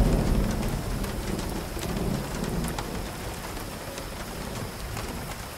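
Steady rain falling, with scattered drops ticking, and a low rumble of thunder that fades away over the first couple of seconds.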